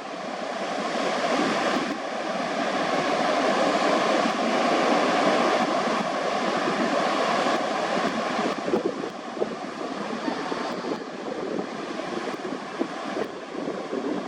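Ocean surf washing onto a beach, a steady rush that builds over the first several seconds and eases off about eight seconds in.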